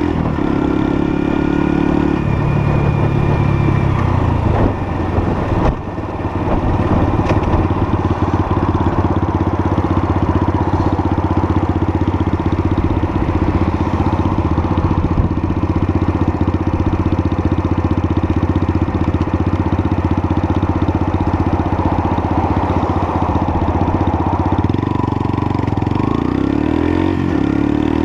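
Lexmoto LSM 125 motorcycle's 125 cc engine running while riding. The loudness dips briefly about five seconds in, and the engine note rises near the end.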